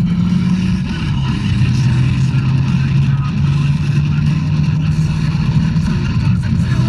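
1985 Ford Mustang GT's 5.0-litre V8 cruising at about 2,000 rpm, a steady low drone heard from inside the cabin.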